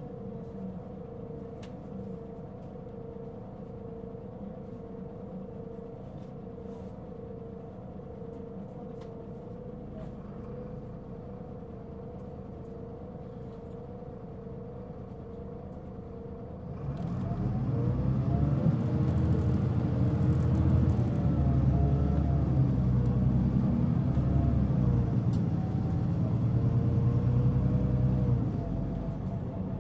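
Mitsubishi Fuso Aerostar city bus's six-cylinder diesel engine heard from inside the cabin. It idles steadily with a constant hum, then about two-thirds of the way in it pulls away under hard throttle, running much louder with rising engine tones, and eases off just before the end.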